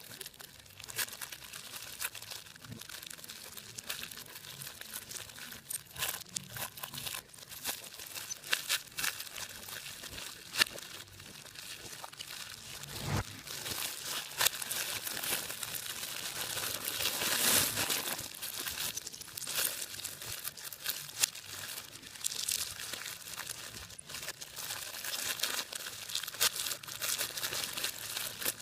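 Hands crumpling and tearing a dry material, a steady irregular crackle full of small sharp clicks, growing louder for a couple of seconds a little past the middle.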